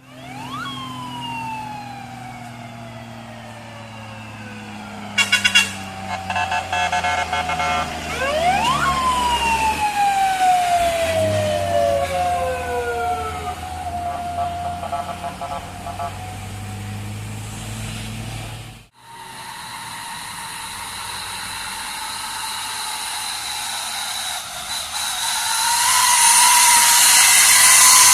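Siren wailing over the low hum of heavy truck engines: two calls, each a quick rise and then a long slow fall, with a short run of rapid loud pulses about five seconds in. After a cut, a steady high whine and hiss grows louder as a vehicle comes closer.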